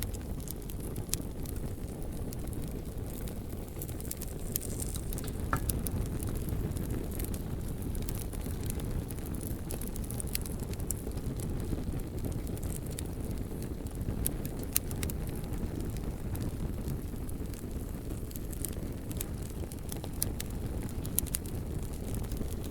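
Bonfire burning with a steady low rumble, crackling with scattered sharp pops and snaps from the burning logs.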